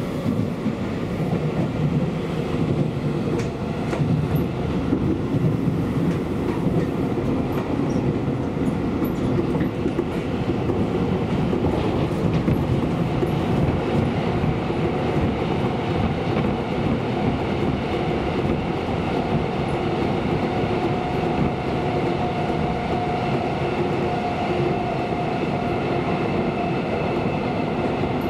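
Electric commuter train running between stations, heard from inside the car: a steady rumble of wheels on rail. A steady whine comes in about two-thirds of the way through.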